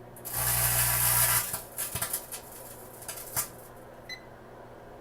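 Microwave oven running with a steady hum while an empty metallised crisp bag crackles inside it: a loud crackling rush for about a second, then scattered sharp pops and crackles as the bag shrinks. A short beep near the end.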